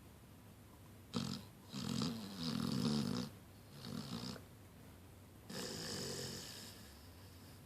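Blue-nose pit bull puppy snoring in its sleep: a series of about four rasping snores, each lasting up to a second or so, with short quiet pauses between them.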